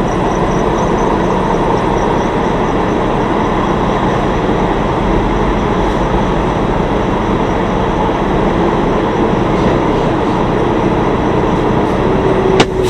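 Loud, steady rumble of a semi truck's running engine and cab noise, with one sharp click near the end.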